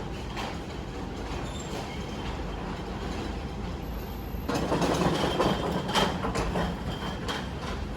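A train running on its rails: a steady rumble that grows louder about halfway through, with a few sharp wheel clacks over the rail joints.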